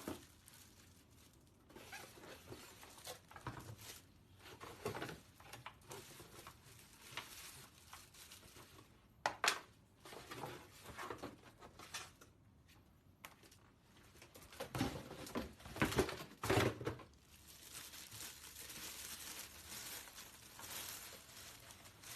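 Packaging being handled: irregular rustling, crinkling and tearing, with scattered sharp knocks and clatters, the loudest about nine seconds in and again around fifteen to seventeen seconds.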